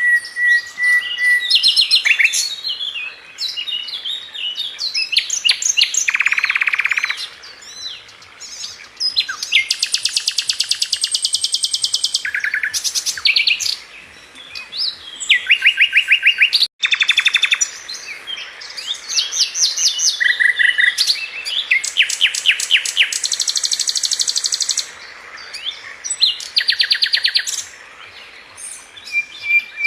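Sikatan London flycatcher singing a varied song: a clear, steady whistle at the start, then chattering phrases and long, rapid, even trills, separated by short pauses. The sound drops out completely for a moment partway through.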